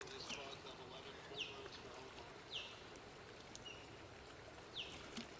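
A small bird calling in short, high chirps that fall in pitch, four of them spaced a second or two apart, over a faint steady outdoor background.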